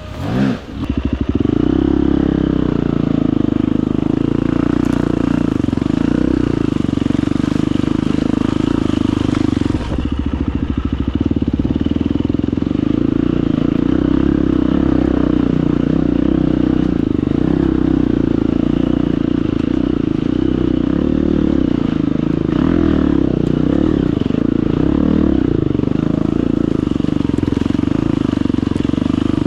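Husqvarna FE250's single-cylinder four-stroke enduro engine revving up in the first second, then running steadily under throttle.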